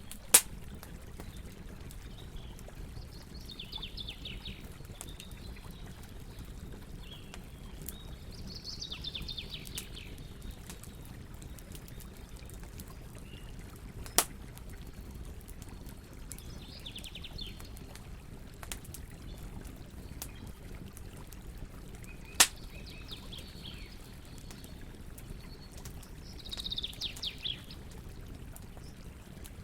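Wood fire crackling over a steady low rush, with three sharp loud pops of burning wood. Birds chirp in about five short bursts of quick, repeated notes.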